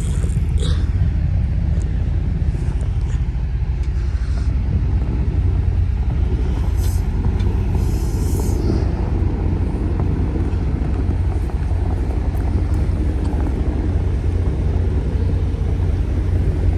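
Steady low rumble of a semi-truck's diesel engine running.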